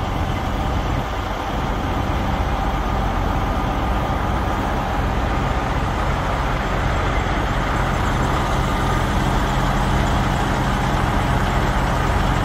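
Diesel semi-truck engine idling steadily, a constant low hum with a noisy hiss on top.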